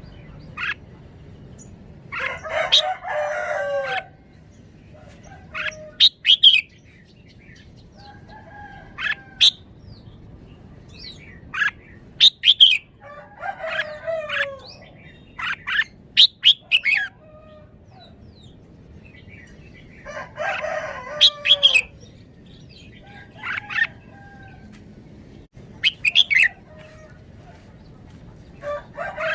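Red-whiskered bulbul singing in short whistled phrases that repeat every few seconds. Three longer, coarser calls with falling lower notes, which may come from a rooster, stand out about two seconds in, near the middle and about two-thirds through.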